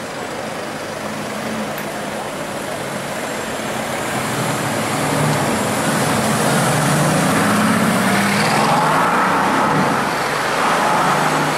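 Mercedes-AMG GT S's 4.0-litre twin-turbo V8 running as the car drives by in city traffic. Its engine note grows louder from about four seconds in and peaks as the car passes, with the pitch rising and falling around eight seconds in, over steady traffic noise.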